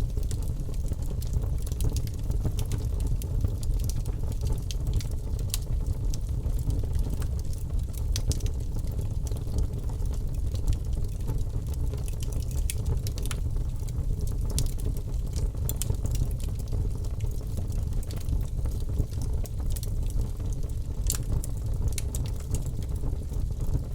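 Logs burning in a fireplace: a steady low rumble of flame with irregular sharp crackles from the wood.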